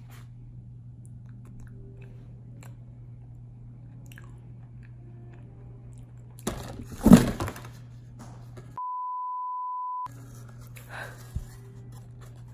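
Quiet chewing of a macaron with crunchy bits of cookie in its filling, then a sudden loud noise about seven seconds in, likely from the macaron and its propped-up plate falling. An inserted electronic beep follows, one steady tone about a second long, with a short thump near the end.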